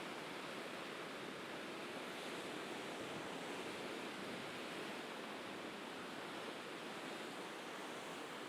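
Sea waves washing steadily on the shore, heard as an even hiss with no single breakers standing out.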